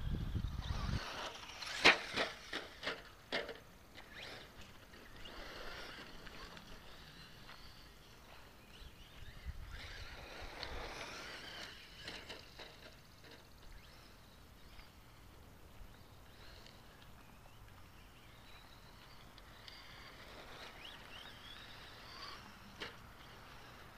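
Team Associated RC10 radio-controlled stadium truck running around a dirt track. A quick series of sharp knocks and clatters comes about two seconds in, then the truck's drivetrain and tyre noise swells and fades several times as it passes.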